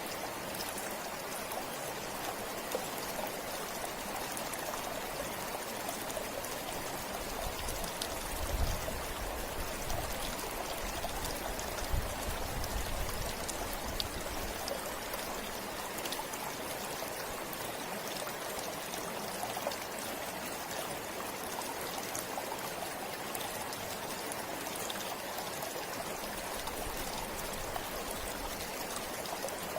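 A forest river flowing: a steady rush of water with small splashes and trickles on top. A few low rumbles come through about eight to thirteen seconds in.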